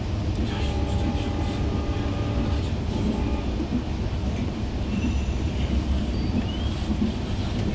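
Passenger train running on the rails, heard from inside a coach: a steady low rumble of wheels and carriage, with faint high wheel squeals.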